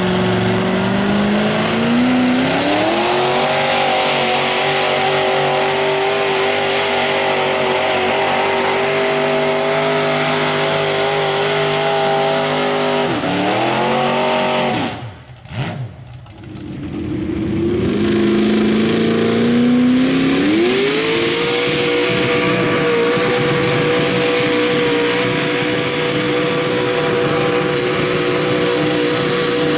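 Modified pulling garden tractor's engine at high revs under load: it climbs in pitch over the first few seconds and holds high and steady, winds down about halfway, drops almost to quiet for a moment, then revs up again and holds high to the end.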